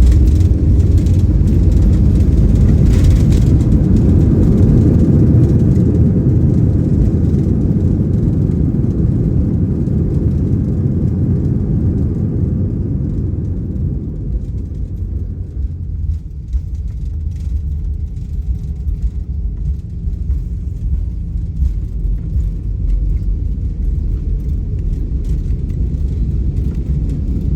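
Cabin noise of an Airbus A319 on its landing rollout: a loud, deep rumble of engines and runway that eases off about halfway through as the jet slows toward taxi speed, with a faint falling whine after that.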